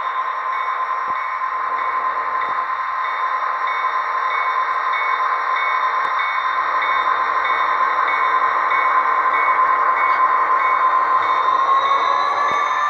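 A train running, with a steady whine and a faint regular clicking, growing gradually louder; the whine rises slightly in pitch near the end.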